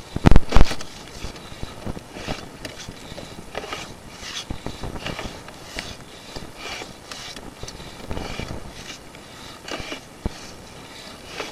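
Sewer inspection camera's push cable and head being worked through a cast iron drain line, with a few loud knocks about half a second in, then irregular scraping and rubbing against hard-water scale.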